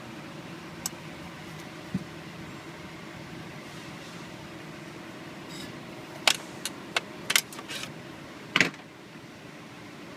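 Hand tools working on an engine: a handful of sharp, irregular metal clicks and clinks from a ratchet, socket and bolts, bunched together about six to nine seconds in. A steady low hum runs underneath.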